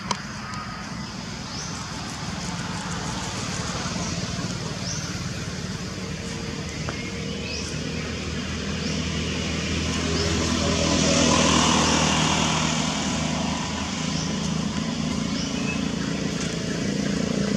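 Motor vehicle engines running and passing, a steady low hum that swells about two-thirds of the way in and again near the end. Short high rising chirps repeat about once a second above it.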